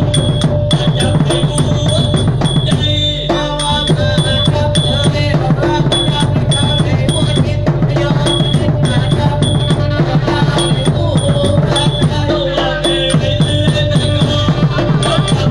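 Southern Thai nora ensemble music: drums and small cymbals keep a fast, steady beat, with a melody line winding above them.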